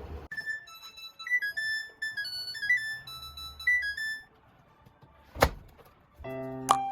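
A short, high electronic chime melody of stepped notes lasting about four seconds. A single sharp knock follows about five seconds in, and background music with a steady beat comes back near the end.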